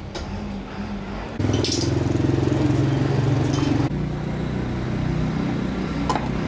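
A small electric motor starts suddenly about a second and a half in, runs with a steady low hum for about two and a half seconds, then cuts off abruptly. A single sharp click comes near the end, over a steady low background hum.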